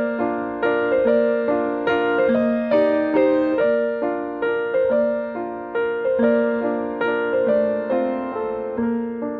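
Piano playing a slow, gentle passage of broken chords, a new note or chord struck roughly every second and left to ring and fade.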